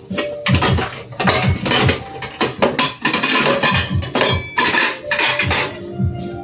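Dishes and cutlery clattering and clinking over and over while being washed up, over background music with a steady beat.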